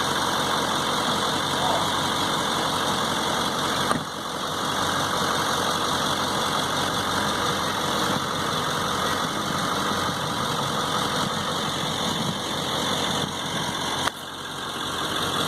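A truck engine idling steadily, with abrupt shifts in level about four seconds in and again near the end.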